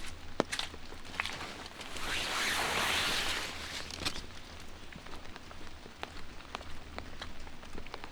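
Footsteps on wet pavement at walking pace, with light rain pattering. About two seconds in, a rushing hiss swells up and fades away over about a second and a half.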